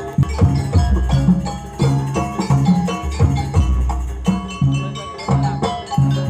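Jaranan gamelan music: pitched mallet percussion playing repeated notes over a steady beat of deep drum and gong strokes.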